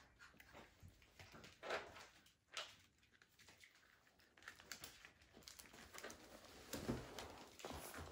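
Near silence with faint scattered taps and scuffles of puppies moving about in their pen.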